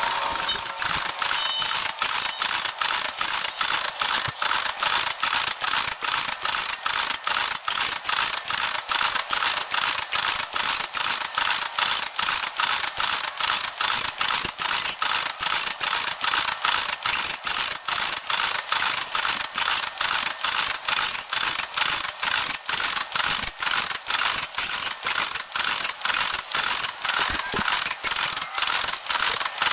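The sound of a loaded crude oil train passing, played back at many times normal speed. It becomes an even, rapid mechanical clatter of about three clicks a second, high and with no low rumble.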